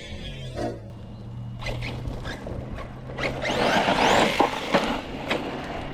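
A brushless electric RC car, a Team Corally Kagama 6S, driving hard: its motor whines in rising sweeps as it accelerates, along with tyre and dirt noise, loudest from about halfway in. A steady low hum runs through the first half.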